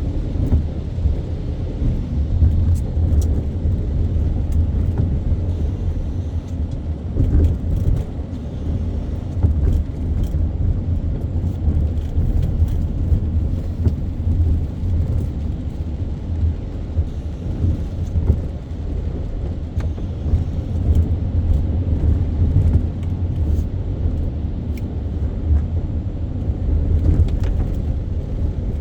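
A car driving through city traffic: a steady low road and engine rumble, with scattered faint ticks.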